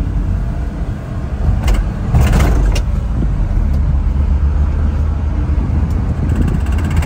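Honda Acty kei truck's small engine running as it drives, with a low rumble and road noise inside the cab that grows louder about two seconds in as it picks up speed.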